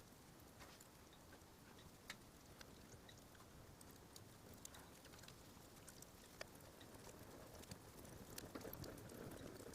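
Faint crackling of a wood campfire: scattered sharp pops and ticks over a low hiss, growing a little busier near the end.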